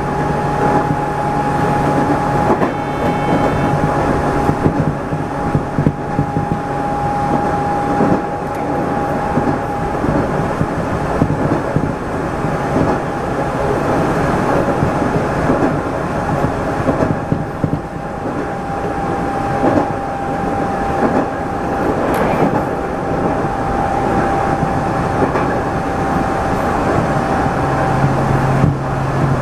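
213 series electric train running at speed, heard from inside the driver's cab: steady running noise with wheels clattering over the rails and a thin steady whine. A brief high-pitched tone sounds about three seconds in.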